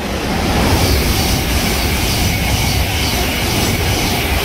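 Thameslink electric multiple unit passing through a station at speed: a loud rumble and rush of wheels on rail that builds over the first second and then holds steady as the carriages go by.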